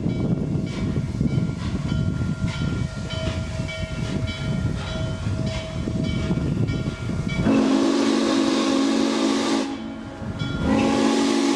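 A steam train rumbles along with a faint beat about twice a second. About seven and a half seconds in, the steam locomotive's whistle sounds a long steady chord, stops briefly, then blows again near the end.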